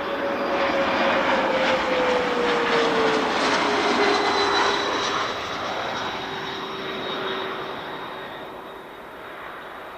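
Airliner passing close overhead near the runway end: a loud engine roar with a whining tone that drops in pitch as it goes by, then fades away.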